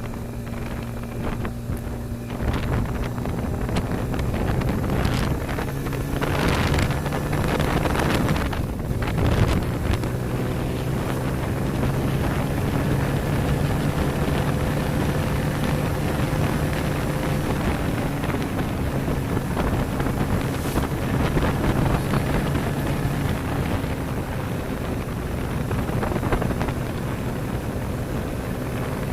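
Motorcycle engine running steadily at road speed, with wind buffeting the microphone; the engine note shifts slightly around eight to ten seconds in.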